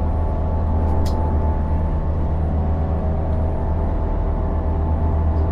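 A boat's engines running steadily under way, a loud low drone with a steady hum, heard on board. Two brief clicks about a second in.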